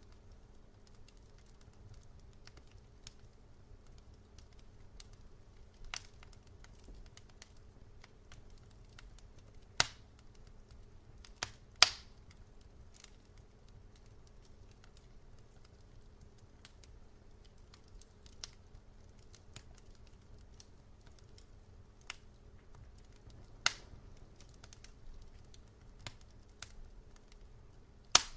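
Wood fire in a fireplace crackling, with scattered sharp pops a few seconds apart over a faint steady low background. The loudest pops come about ten and twelve seconds in.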